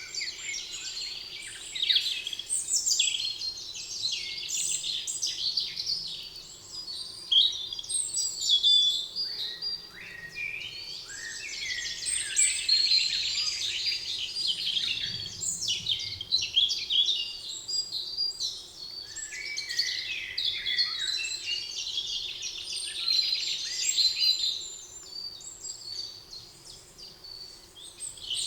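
Several songbirds singing and chirping at once, a dense chorus of overlapping trills and short chirps, thinning briefly near the end, over a faint steady low hum.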